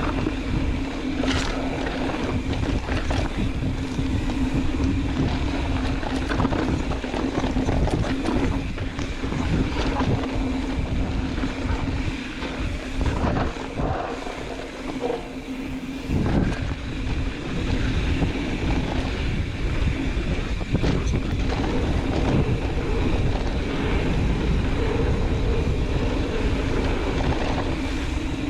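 Mountain bike descending a rocky dirt trail: wind buffeting the microphone, tyres rumbling over dirt and rock, and frequent knocks and rattles from the bike over the bumps, with a steady low buzz throughout. It eases off briefly about halfway through.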